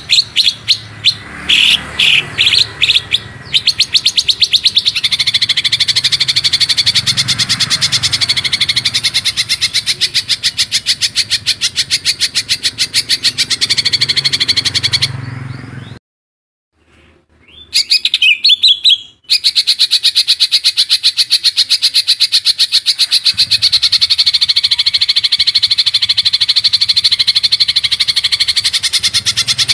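Songbird tutor-song (masteran) recording: a long 'roll speed' trill of very fast repeated high notes. About halfway through it cuts out briefly to near silence, a few separate chirps follow, and then the fast trill starts again.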